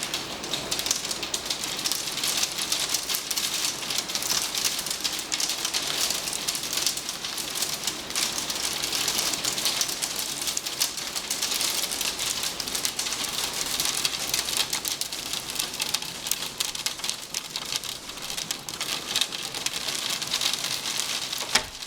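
Hail pelting down, a dense steady patter of countless small ice pellets striking outside surfaces.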